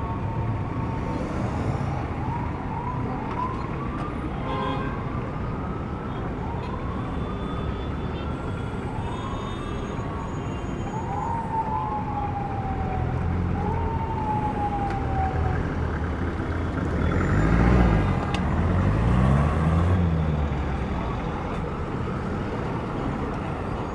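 Street traffic with a siren sweeping up and down in pitch over and over, the last sweeps falling away about fifteen seconds in. Then vehicles pass close by, loudest about eighteen and twenty seconds in.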